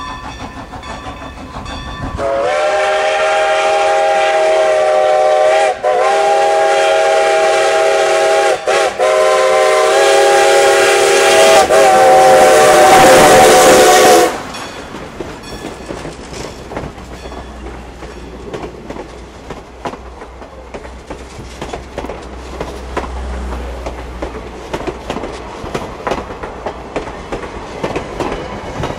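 Steam locomotive No. 90's chime whistle blown for about twelve seconds, several notes sounding together, with a few brief breaks in the blast. After it cuts off, the train runs on with the clickety-clack of wheels over rail joints and a low rumble.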